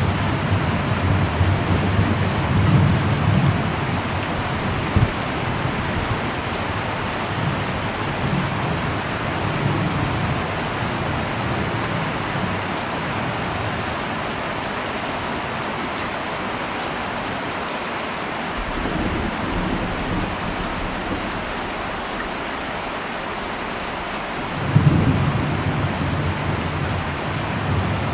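Heavy rain falling steadily on an old metal roof, with low thunder rolling in and fading several times. Near the end a louder peal of thunder breaks in suddenly and keeps rumbling.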